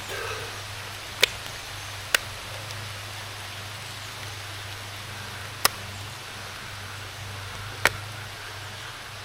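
Steady hiss of heavy rain with a low hum underneath, and four sharp ticks spread through it.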